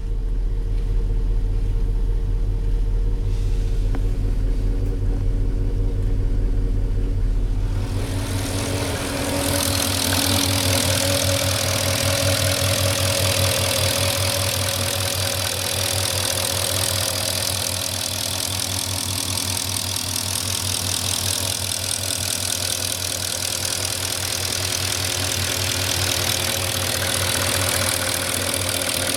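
Porsche Cayenne S 4.5-litre V8 idling steadily about three minutes after a cold start, with a fast, even ticking from the engine. The ticking and hiss come through clearer from about eight seconds in. The owner takes the ticking for normal and not a sign of scored cylinders or piston slap.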